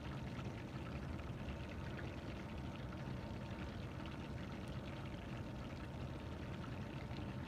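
Chicken drumsticks deep-frying in hot oil: a steady sizzle with fine crackling. This is the short final fry at higher heat that crisps the coating.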